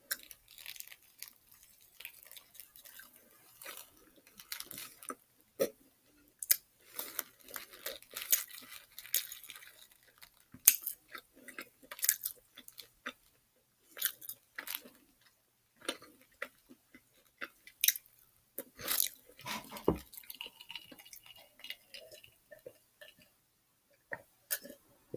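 Close-up chewing of a Popeyes spicy fried chicken sandwich, with irregular crunches from the crispy breading.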